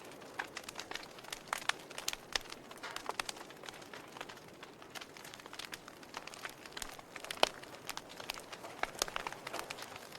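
Wood fire in a fireplace crackling, with irregular sharp pops and snaps over a soft steady hiss; one louder pop about seven and a half seconds in.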